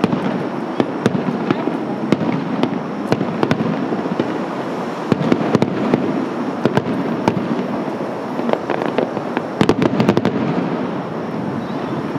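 Aerial firework shells bursting overhead in quick succession: sharp bangs and cracks over a continuous rumble, with dense volleys of crackling about halfway through and again a few seconds before the end.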